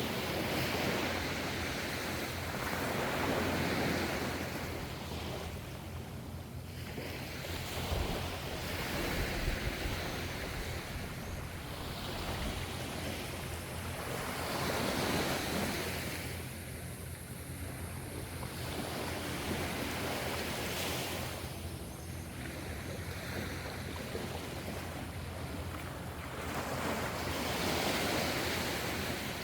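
Ocean waves breaking and washing in, swelling and fading every few seconds, over a steady low rumble.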